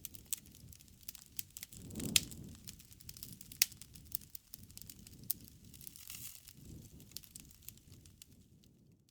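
Bonfire crackling: irregular sharp pops and snaps of burning wood over a low rumble of flame, with the loudest pops about two seconds in and again a second and a half later.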